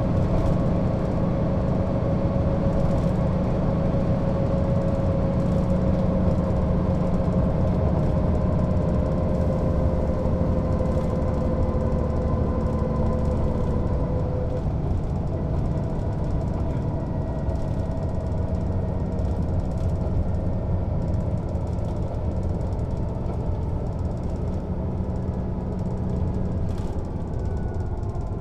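Mercedes-Benz O 407 city bus running under way: steady diesel engine and drivetrain noise. About halfway through, the engine's humming note fades and the sound eases slightly, as if the engine comes off load.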